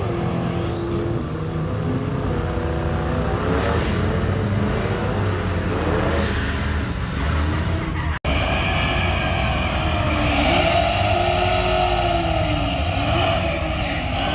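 Car engines running and revving. About eight seconds in the sound cuts abruptly to a different engine whose pitch rises and falls.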